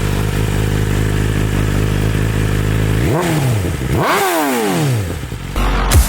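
2023 BMW S1000RR inline-four idling steadily through Akrapovic race headers and mid pipe with the stock slip-on, then revved twice: a short blip about three seconds in, then a bigger rev that rises and falls back. Music comes in near the end.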